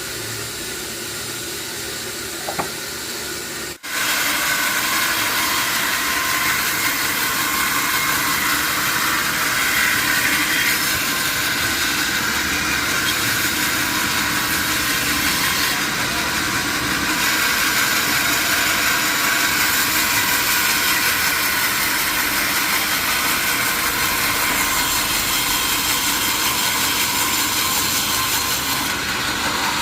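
Sawmill saw running steadily while cutting johar wood. An abrupt break about four seconds in, after which the sawing noise is louder and brighter.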